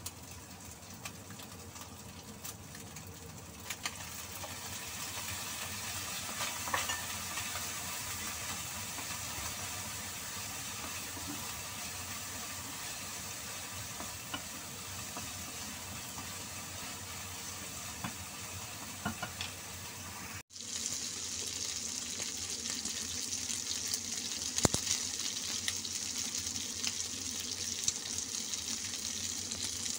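Strips of meat sizzling as they are stir-fried in a nonstick frying pan, with a wooden spatula scraping and clicking against the pan. The sizzle grows louder about four seconds in. It breaks off for a moment about two-thirds of the way through and comes back brighter and closer.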